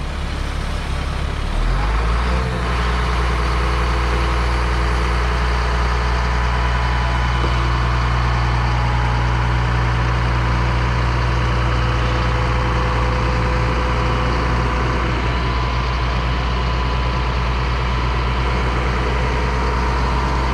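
Heavy diesel engine running steadily, picking up speed about two seconds in and then holding a constant rumble.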